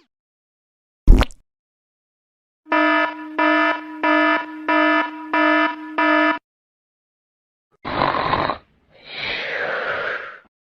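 A single sharp hit, then an electronic buzzer-like alarm beeping six times in a steady rhythm, followed near the end by two short hissing noise bursts.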